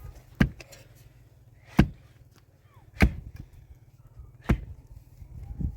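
Four sharp, heavy blows of a hand tool striking something solid, one about every second and a half.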